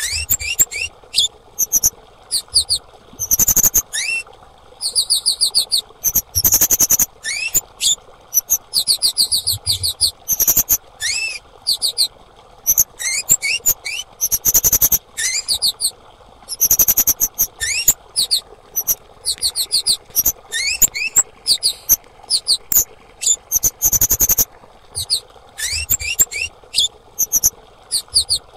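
Female kemade bird calling in quick bursts of very high, thin chirps and trills, repeated every second or two, with short rising notes mixed in. It is a recorded call used to prompt other kemade birds to sing.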